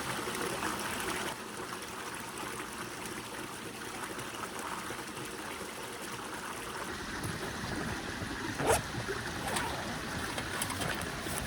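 Small mountain stream trickling and babbling steadily over stones, with a single brief knock about three-quarters of the way through.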